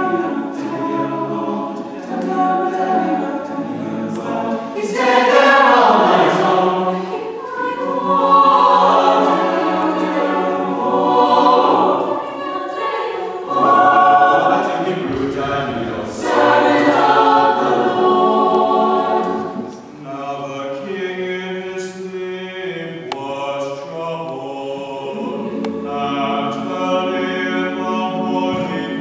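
High school chamber choir singing a cappella, with several phrases swelling louder and falling back.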